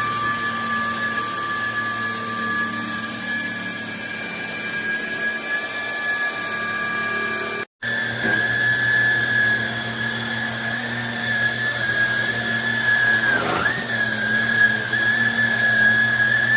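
Trucozie cordless stick vacuum motor running with a steady high whine. It breaks off for an instant about halfway through, and its pitch dips briefly a few seconds before the end.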